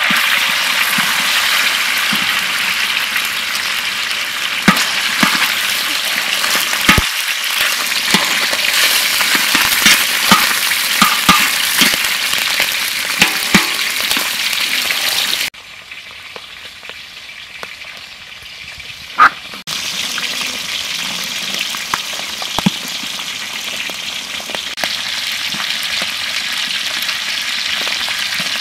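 Whole fish and eels frying in hot oil in a wok: a loud, continuous sizzle full of sharp pops and crackles. About halfway through the sizzle drops to a quieter level, then comes back up a few seconds later.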